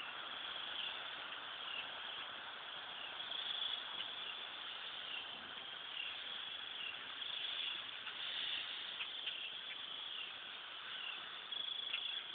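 A large flock of birds calling all at once: a dense, steady chatter of many short, high chirps overlapping one another.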